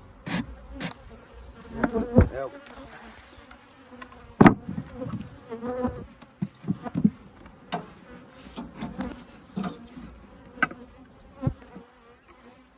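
Honeybees buzzing steadily around an open hive, with several sharp knocks and scrapes of wooden hive parts being handled; the loudest knock comes about four and a half seconds in.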